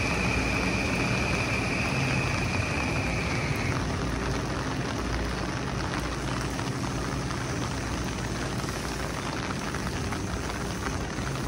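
Heavy rain pouring down while a Metro-North electric commuter train runs away from the platform, its running sound slowly fading. A steady high whine stops about four seconds in.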